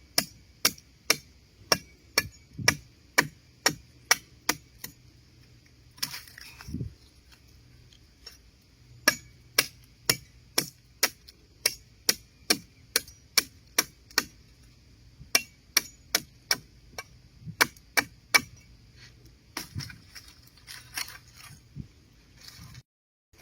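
Repeated sharp knocks, about two or three a second, in runs of several seconds broken by short pauses, growing softer near the end.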